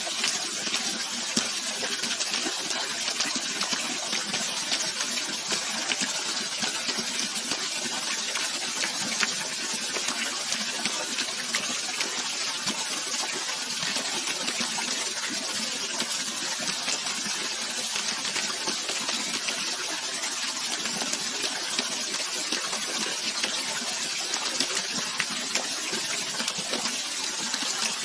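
Running water splashing steadily: a bright, even hiss with little low rumble, flecked with small sharp ticks of droplets.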